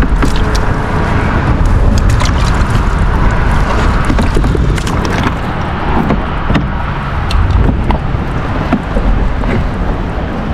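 Old Town pedal-drive kayak moving through weedy water: steady churning with scattered clicks and knocks, and wind buffeting the microphone.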